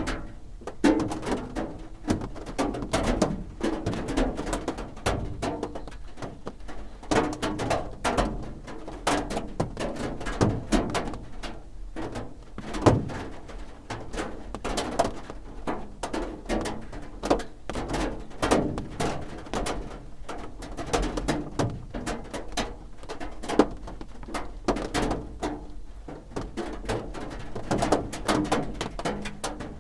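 Raindrops drumming on a roof: a continuous run of irregular taps and drips, some louder single hits standing out.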